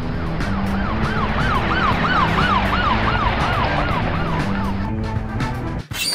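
Electronic ambulance siren from a toy ambulance, a wailing tone that swoops up and down about four times a second. It stops about a second before the end.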